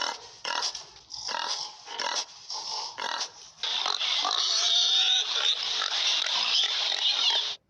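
Domestic pig grunting in short bursts, then squealing continuously for about four seconds.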